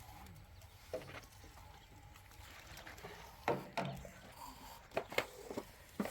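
A few scattered sharp knocks and clicks over a faint steady background: one about a second in, two together around the middle, and several more close together near the end.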